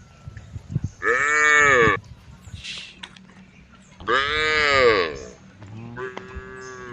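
Cows mooing: two loud calls about a second long, each rising then falling in pitch, about three seconds apart, then a fainter call near the end.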